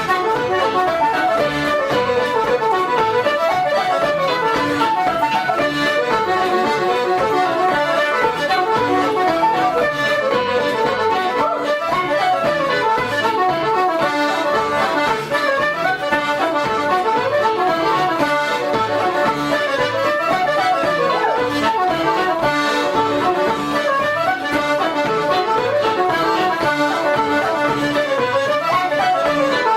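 Irish traditional reels played at a brisk, steady pace, with the accordion carrying a fast running melody.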